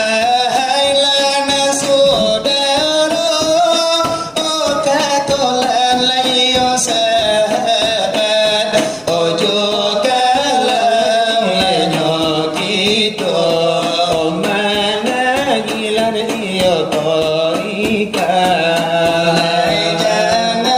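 Selawat dulang: voices sing a drawn-out, ornamented religious chant to the beating of percussion, steady throughout.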